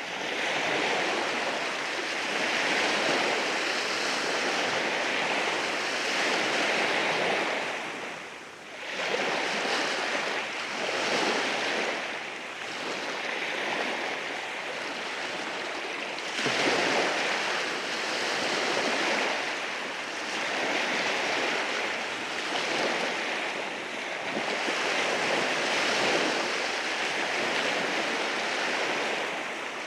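Waves breaking and washing over rocks on a beach, a continuous hiss of surf that swells and ebbs every few seconds. It dips briefly about a third of the way in, and a sudden surge comes a little past halfway.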